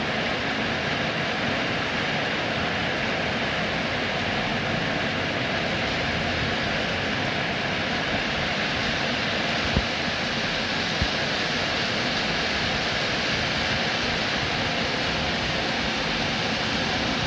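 Steady rainfall, an even hiss of falling water that never changes in level, with two soft knocks a little past halfway.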